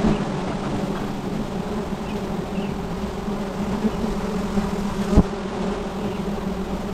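A swarm of honeybees buzzing steadily around their comb, a dense hum. A single sharp knock a little after five seconds in.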